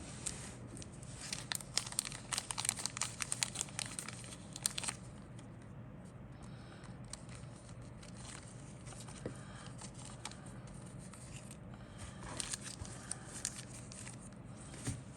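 Packaging from a plastic model kit crinkling and rustling as it is handled: a dense flurry of sharp crackles for a few seconds, then a lighter bout near the end.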